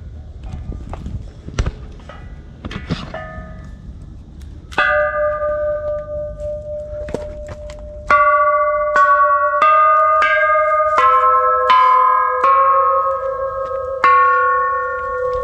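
Metal bells struck one after another at different pitches, each note ringing on and overlapping the next, after a few light knocks.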